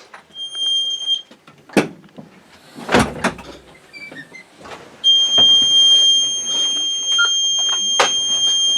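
The 2021 Blue Bird All American school bus's warning buzzer: a short high beep, a few knocks and clunks, then about five seconds in a steady high-pitched buzz comes on and keeps sounding.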